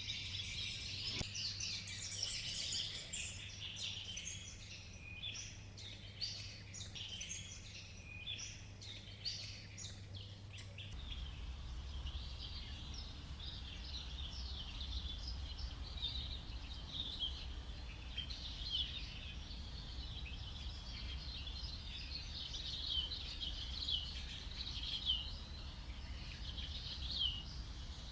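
Tropical rainforest ambience: a dense chorus of many birds and insects chirping over a low steady background hum. About eleven seconds in, the soundscape switches to a different mix of chirps.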